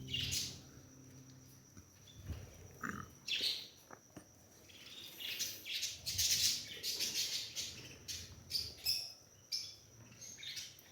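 Mixed aviary birds (cockatiels, lovebirds, budgerigars) chirping and calling in short, scattered bursts, busiest around the middle.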